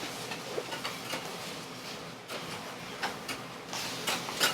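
Metal spatulas clicking and tapping irregularly on a hot iron griddle over a steady sizzle, with a louder flurry of strikes near the end.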